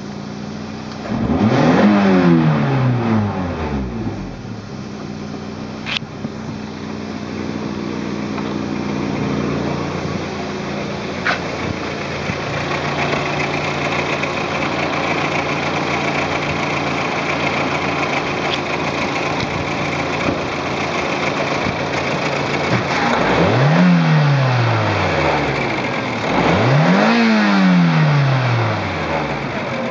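Toyota AE86's 4A-GEU 1.6-litre twin-cam four-cylinder engine idling steadily, blipped up in a quick rev and back down three times: once about a second in and twice near the end.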